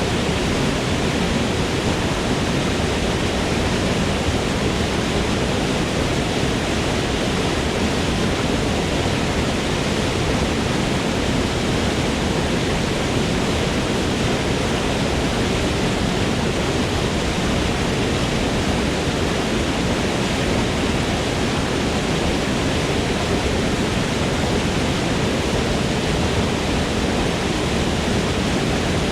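Forest waterfall: a steady, unbroken rush of falling water with a deep rumble underneath.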